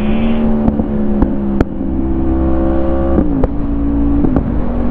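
Motorcycle engine running under way at a steady pitch, with wind rumbling on the microphone; the engine note drops suddenly about three seconds in and holds lower.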